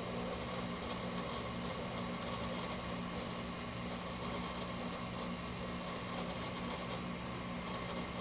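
LG window air conditioner running steadily: its compressor humming under the rush of the fan. The compressor is building pressure as the unit starts to cool.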